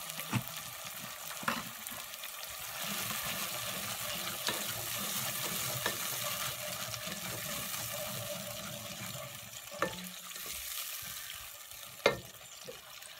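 Fried onions, tomato paste and garlic paste sizzling steadily in a pot as they are stirred with a spoon. A few sharp knocks of the spoon against the pot, the loudest near the end.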